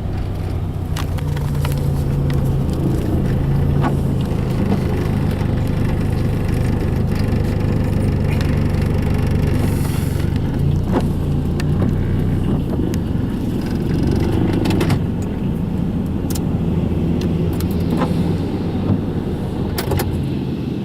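Norfolk Southern freight train rolling past: a steady low rumble with scattered sharp metallic clicks and clanks from the wheels and cars.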